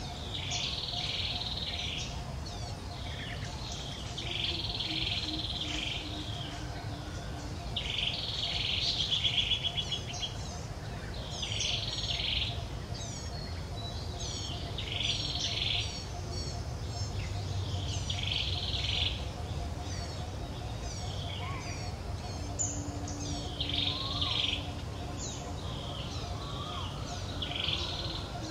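Bird song: a short, high phrase repeated about every three and a half seconds, with thin quick chirps in between.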